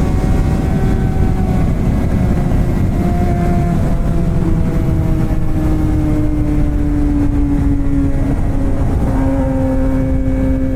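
Straight-piped Suzuki GSX-R600 K7 four-cylinder engine under way, its note gradually dropping in pitch as the revs fall and then holding steady near the end, over a heavy low rumble of wind and road.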